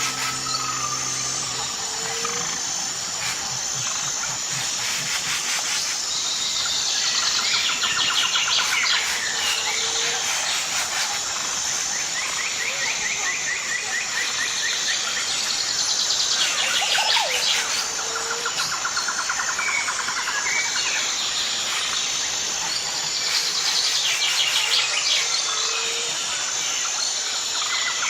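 Birds chirping and trilling in short repeated phrases over a steady, high insect buzz.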